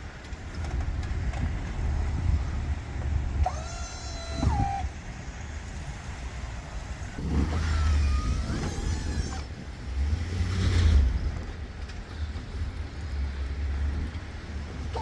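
Snow-plowing machine's engine running with a steady low rumble. Brief squeaky tones rise and fall about four seconds in and again around eight seconds, and a louder scraping swell comes near eleven seconds.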